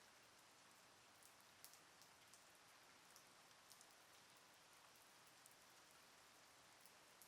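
Faint steady rain, with scattered single drops ticking close by now and then.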